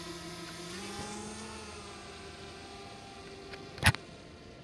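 DJI quadcopter drone's propellers buzzing steadily while it climbs straight up in an automated quickshot. The pitch steps up slightly about a second in, then the sound slowly fades as the drone gains height. One sharp click sounds just before the end.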